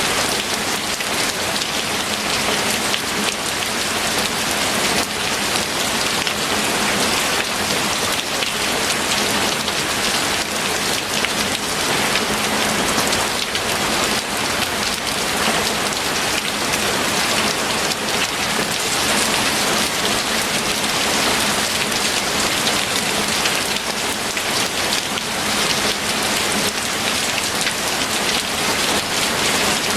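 Steady heavy rain falling on a surface, a dense even patter of countless drops.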